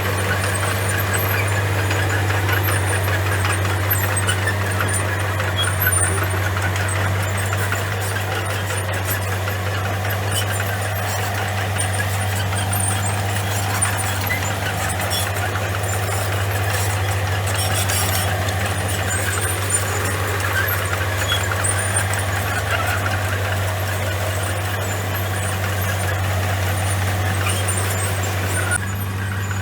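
Komatsu bulldozer's diesel engine running at a steady pitch, with a continuous rattling, scraping noise over it from its steel tracks working through gravel.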